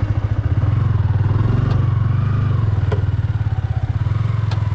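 Single-cylinder motorcycle engine running at low, steady revs, its exhaust beat pulsing rapidly, with a few faint clicks over it.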